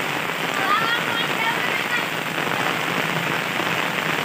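Steady rain falling on the road and the surrounding foliage: an even hiss with no break. A faint voice is heard about a second in.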